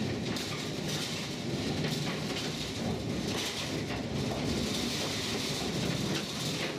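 Narrow-gauge railway train running along the track: a steady noise of wheels and carriages on the rails with faint light clicks.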